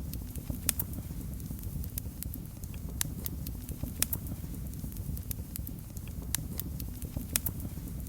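Wood fire crackling in a fireplace: a steady low rumble of flames under frequent sharp, irregular pops and snaps.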